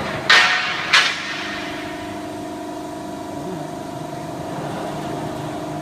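QC11Y hydraulic guillotine shear cutting sheet metal: the hydraulic pump hums steadily, and two sharp, loud hits about two-thirds of a second apart in the first second come with the blade's cutting stroke.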